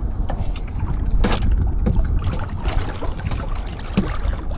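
Kayak paddling: water splashing and dripping off the paddle blades in irregular strokes, over a steady low rumble.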